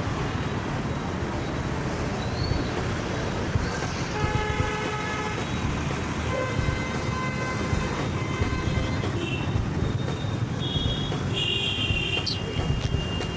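Road traffic with a steady low rumble of engines and tyres, and car horns honking several times, the longest toots near the end.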